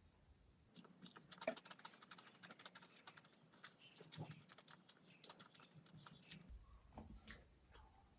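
Close-miked eating sounds: rapid, faint clicks of a person chewing with the mouth, stopping about six seconds in.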